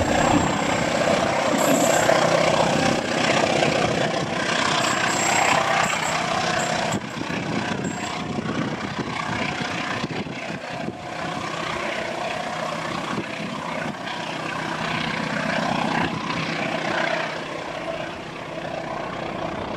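Passenger train pulling away: the rumble of the coaches on the rails and the distant drone of its diesel locomotive slowly fading. A faint high squeal comes and goes during the first several seconds.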